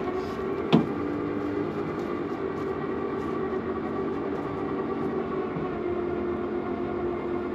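An engine running steadily with an even drone, and one sharp click just under a second in.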